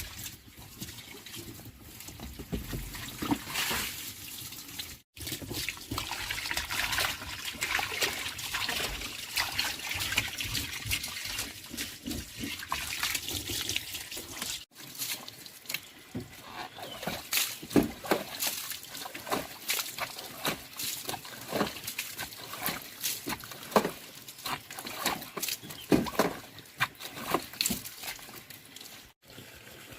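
Water trickling and splashing, with many short splashes; it breaks off abruptly three times where shots are cut together.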